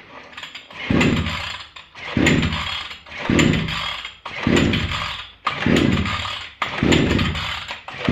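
Recoil starter of a small two-stroke outboard motor, a brushcutter engine, pulled about seven times, roughly once a second, with the choke on. The engine turns over with a falling whirr on each pull but does not keep running.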